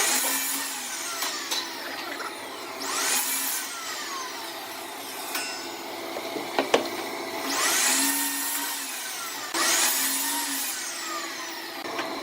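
Woodturning on a lathe: a cutting tool is pressed against the spinning wood four times, each pass a hiss that rises and then falls away.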